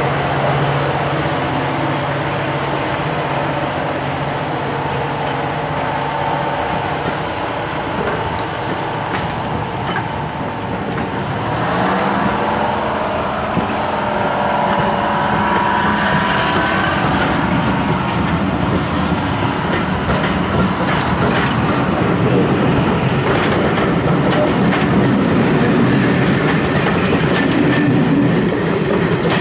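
Train of green slam-door passenger coaches rolling past, its wheels rumbling along the track. A low steady hum fades after the first several seconds, and sharp clicks of the wheels over rail joints grow more frequent in the second half.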